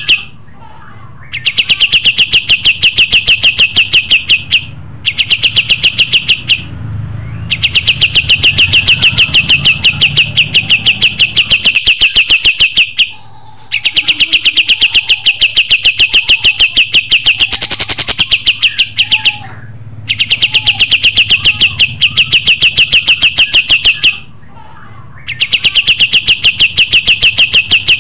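Kapas tembak songbird singing: a rapid, even string of repeated high notes, in phrases of a few seconds broken by short pauses.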